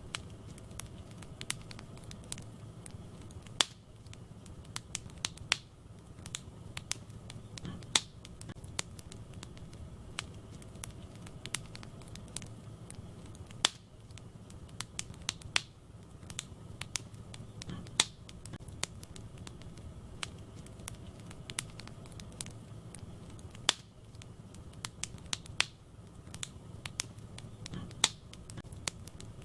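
Wood fire crackling in a fireplace: irregular sharp snaps and pops, several louder ones every few seconds, over a steady low hiss of burning.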